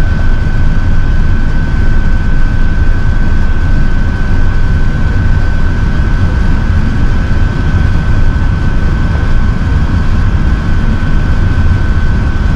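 Steady cabin noise of an Airbus A380 in flight: a loud, even low rumble of engines and airflow with a thin, steady high whine over it.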